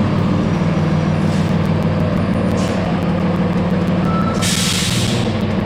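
A heavy vehicle's engine idling steadily, with a short, loud hiss of air about four and a half seconds in and two fainter hisses before it.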